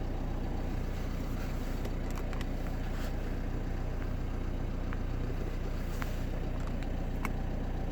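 Nissan NV200's 1.5 dCi diesel engine idling with a steady, even hum. A few faint clicks come through over it.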